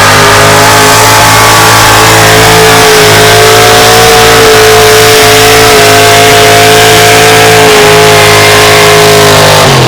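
A pulling vehicle's engine at full throttle under heavy load, very loud and holding steady high revs. The pitch falls away right at the end as the throttle comes off.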